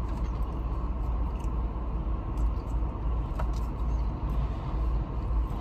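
Steady low hum of a car's idling engine, heard inside the cabin, with a few faint clicks.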